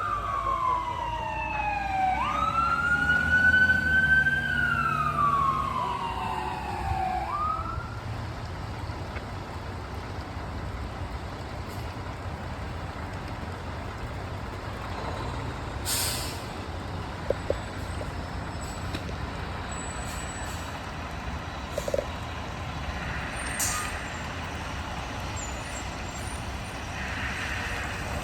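Emergency vehicle siren wailing, sweeping slowly down and up in pitch, fading out about eight seconds in. After that a steady traffic and engine rumble, broken by a few short sharp sounds.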